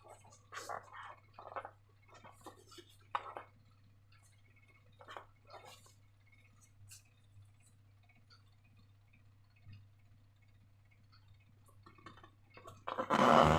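Slime being handled: scattered soft sticky clicks and small wet squelches, with a steady low hum underneath. A louder, denser stretch of the same kind of sound starts near the end.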